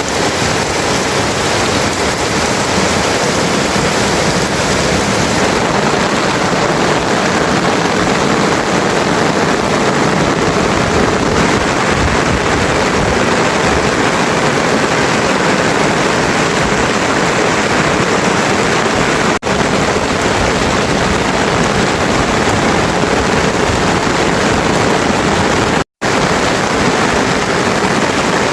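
Heavy rain falling in a steady, loud hiss, cutting out for an instant twice, about two-thirds of the way through and again near the end.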